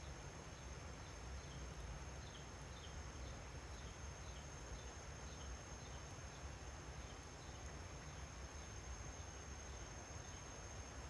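Faint insect chorus, a steady high-pitched buzz with short falling chirps about twice a second, over a low rumble.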